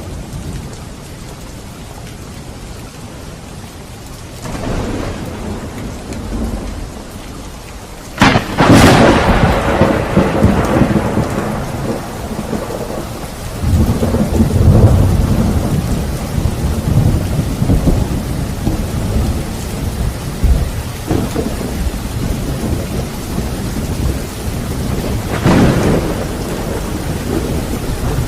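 Steady rain falling during a thunderstorm. A sharp, loud thunderclap about eight seconds in rolls off into a long rumble, more low rumbling follows a few seconds later, and another peal of thunder comes near the end.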